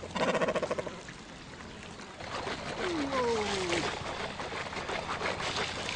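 Water sloshing and trickling, with a short, fast rattle in the first second and two drawn-out falling calls a little before the middle.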